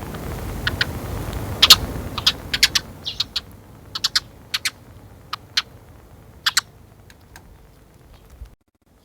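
A sparrow making a series of short, sharp sounds at irregular intervals, about a dozen over several seconds, spacing out toward the end.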